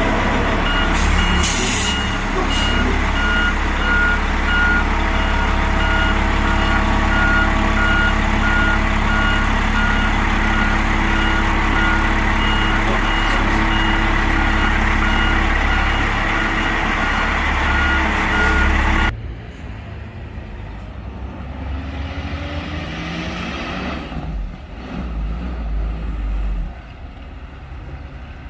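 Large truck backing up: its diesel engine runs steadily under an evenly repeating backup alarm beep. About two-thirds through, the sound drops suddenly to much quieter outdoor noise.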